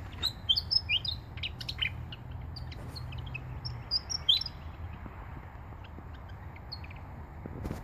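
Willie wagtail calling: a quick run of short, sweeping chirps, busiest in the first four seconds, then a few scattered ones.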